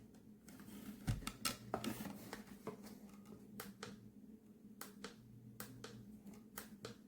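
Irregular light clicks and taps, most of them about a second or two in and a few scattered later, over a faint steady hum.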